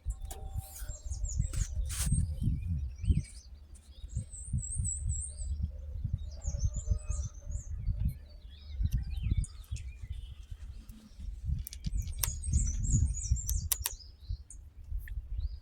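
Small birds chirping in quick high phrases, in two main bouts, over gusty wind buffeting the microphone.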